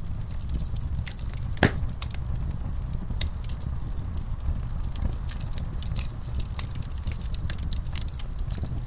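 Wood fire crackling in a fireplace: a steady low rumble of the flames with irregular sharp pops and snaps, one louder pop about one and a half seconds in.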